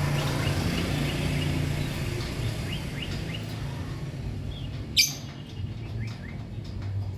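Lovebirds chirping: a string of short rising chirps, then one loud, shrill call about five seconds in, over a steady low hum.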